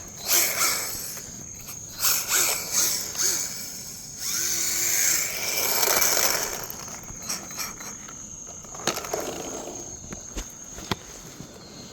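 Electric RC rally car on hard drift tyres driven in three bursts, its motor whirring as the tyres spin and slide over a smooth surface, then quieter with a few clicks. Crickets chirp steadily behind.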